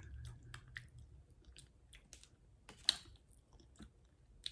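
A person chewing a mouthful of food close to the microphone, with soft wet mouth clicks throughout and one sharper click about three seconds in.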